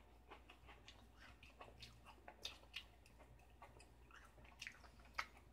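Faint chewing of a cookie: soft, irregular mouth clicks and small crunches, with one sharper click about five seconds in.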